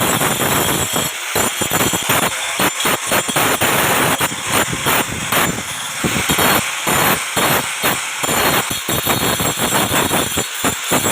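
Metalworking noise from knife-making: a dense, irregular run of sharp scraping and knocking strokes of tool on steel.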